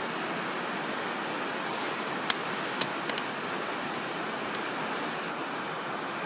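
Wood campfire crackling, with scattered sharp pops, the loudest about two seconds in and a few smaller ones soon after, over a steady rushing noise.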